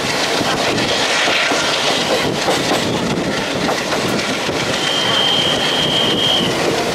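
Passenger train running, heard from on board, its wheels clattering over the rail joints in a steady rumble. A thin, steady high wheel squeal sounds for about a second and a half, starting about five seconds in.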